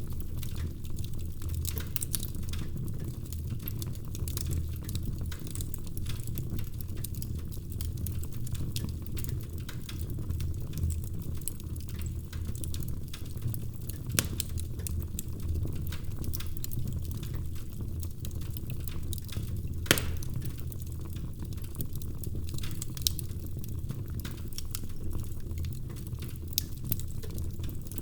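Wood fire in a fireplace crackling steadily over a low rumble of flames, with frequent small snaps and a sharper pop about two-thirds of the way through.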